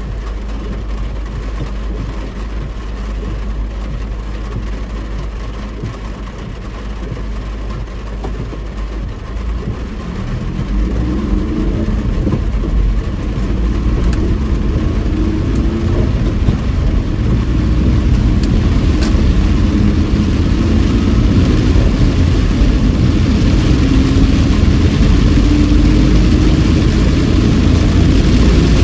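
A car heard from inside the cabin while driving: a low engine and road rumble that gets louder about ten seconds in as the car speeds up, with the engine note rising. A hiss of tyres on the rain-soaked road builds up later on.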